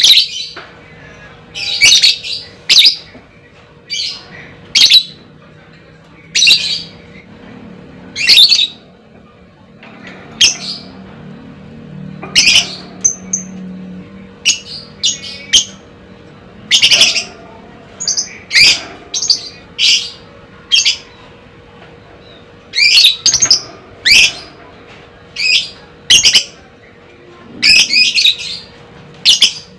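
Lovebird giving short, shrill, high chirping calls, about one a second, some in quick pairs.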